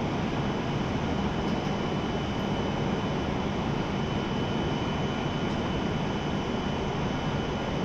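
E7-series Shinkansen train standing at the platform, its onboard equipment running with a steady whirring drone and a thin, steady high whine.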